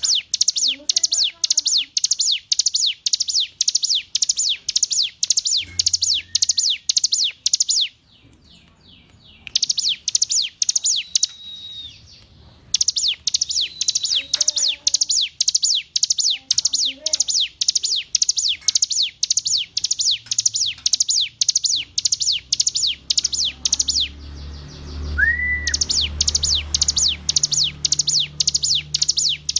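Ciblek gunung (a prinia) singing: long trains of sharp, high, downward-slurred notes at about three a second, broken by brief pauses. About 25 seconds in there is one lower, rising-and-falling whistled note.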